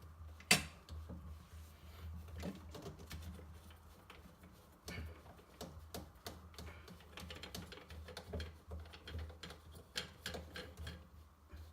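Plastic sink drain-trap parts clicking and knocking as they are handled and taken apart, with many small irregular clicks and one sharper knock about half a second in.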